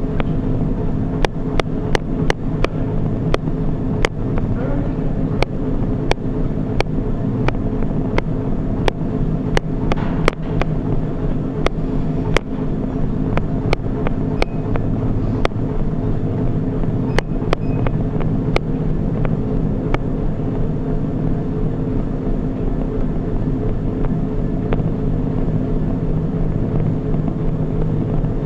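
Treadmill in use during a run: a steady hum from the motor and belt, with sharp footfall thuds on the deck that come often at first and thin out in the last third.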